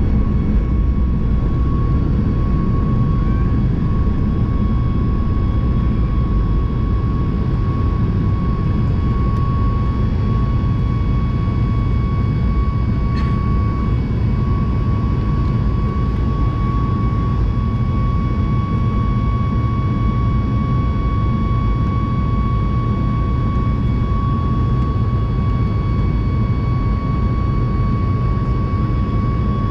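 Boeing 737 MAX 8 jet engines (CFM LEAP-1B) running steadily, heard from inside the cabin as a low rumble with a steady high whine over it.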